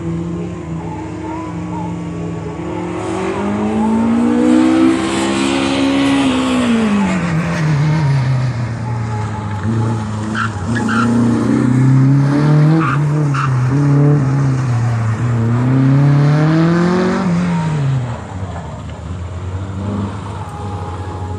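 Racing truck's engine running hard, its pitch climbing and falling several times as it accelerates and backs off, louder through the middle and dropping back sharply near the end.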